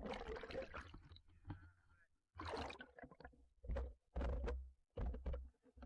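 Water sloshing and gurgling against a submerged action camera, in about five surges with a deep rumble, the longest at the start.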